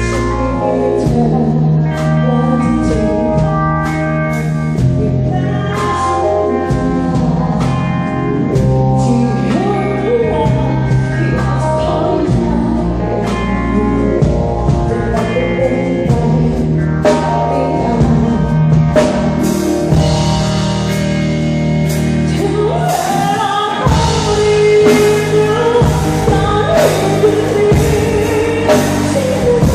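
A band playing a song with a steady drum beat and bass line. A singing voice comes in about twenty seconds in and grows louder toward the end.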